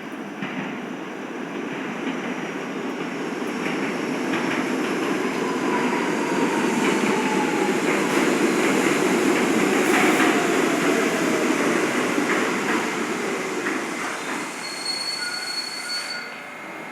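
New York City subway G train pulling into a station: the rumble and wheel noise build to a peak about halfway through and then ease as it slows. Falling whines run through the middle, and a high brake squeal comes near the end as it stops.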